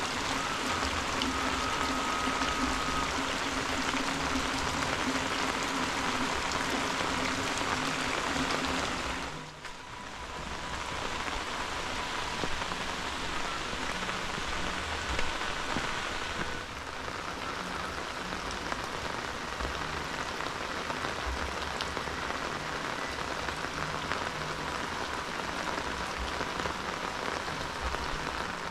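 Heavy rain falling steadily on a fish pond's water and the surrounding vegetation, a dense even hiss.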